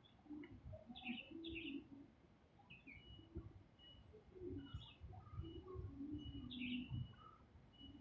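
Faint birdsong: scattered short chirps, with a thin high note repeated over and over through the second half, over lower, longer calls.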